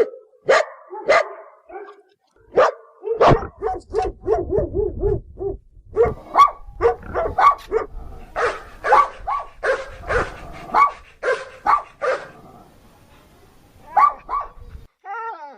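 A dog barking repeatedly: a few single barks, then a quick run of short yips, then steady barks about twice a second, with a last couple of barks near the end.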